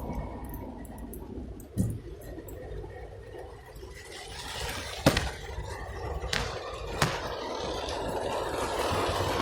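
Floodwater splashing and sloshing, swelling about halfway through, with a few sharp taps or knocks scattered among it.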